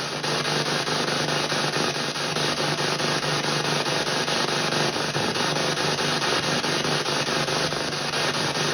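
PSB7 spirit box in reverse sweep, played through stereo speakers: a steady hiss of radio static chopped into rapid, evenly spaced fragments as the radio jumps from station to station.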